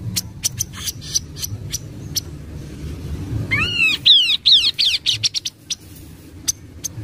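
Kaso-kaso bird calling: a quick run of about eight arching, down-slurred whistled notes near the middle. Sharp clicks are scattered throughout, over a low steady rumble.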